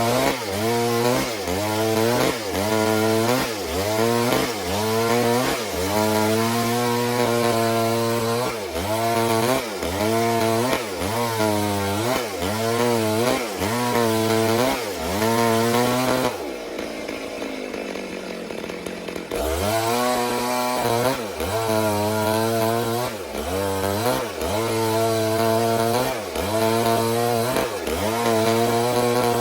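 A Stihl two-stroke chainsaw is running under load, ripping lengthwise along a log while milling it into boards. Its pitch dips and recovers about once a second as the chain bites. About halfway through, the engine drops in speed for roughly three seconds, then picks up and cuts again.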